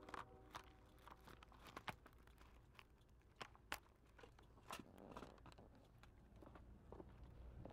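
Near silence with faint, scattered clicks and crunches; a held horn tone cuts off right at the start.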